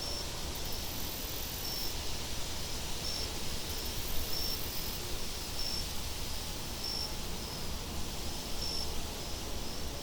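Steady wind noise with a low rumble underneath, and crickets giving short high chirps every second or two.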